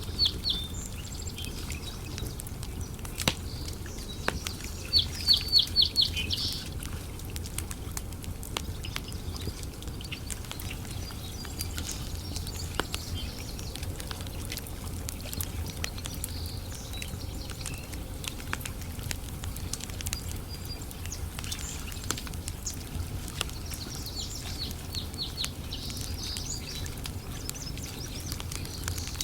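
Wood campfire crackling with scattered sharp pops over a steady low rumble. A bird calls in quick runs of high repeated notes three times: at the start, louder about five seconds in, and again near the end.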